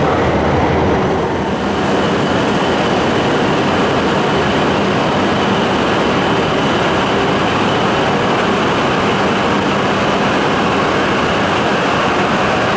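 Shinkansen train running along the platform in an underground station, a loud steady rush of noise with a faint high whine entering about two seconds in.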